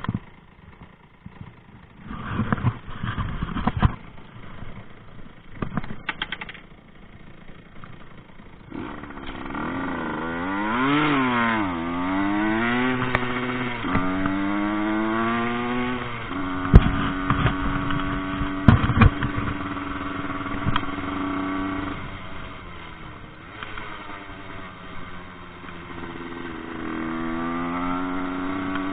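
Rieju MRT moped's small two-stroke engine being ridden: knocks and rattles for the first several seconds, then the engine revs up and drops back again and again, holds steady for a while with a few sharp knocks, and climbs once more near the end.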